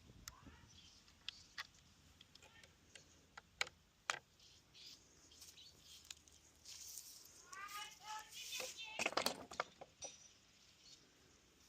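Faint scattered clicks and taps, with a short run of high, repeated chirping squeaks about eight seconds in and a cluster of louder knocks just after.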